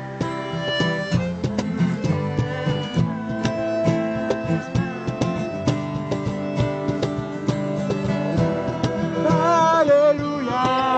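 Acoustic guitar strummed in a folk song, with a voice singing along from about nine seconds in.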